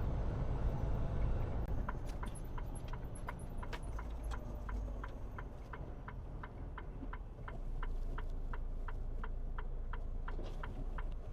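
Turn-signal clicker ticking steadily, about three clicks a second, starting about two seconds in, over the low hum of a semi truck's diesel engine heard inside the cab.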